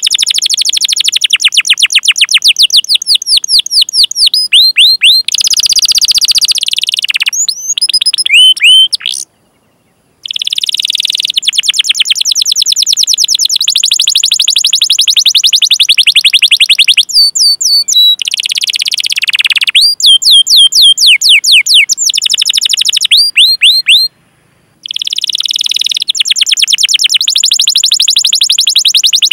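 Domestic canary singing loudly: long, fast rolling trills of rapidly repeated high chirps with sharp 'cuit cuit' calls, broken by two short silences, about nine seconds in and again about three-quarters of the way through.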